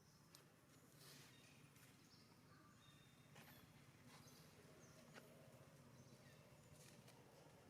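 Near silence: faint outdoor ambience with a few short, high chirps and light rustles.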